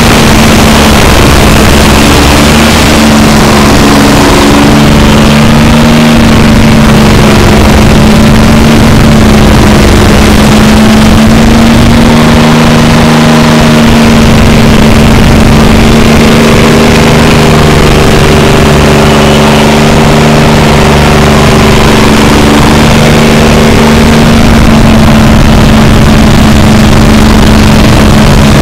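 SP-7015TRX stump grinder's engine running loud and steady.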